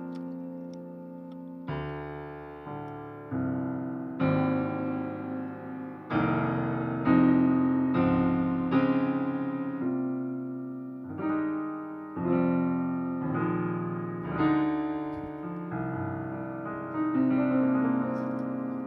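Solo piano background music: slow chords struck every second or two, each left to ring and fade.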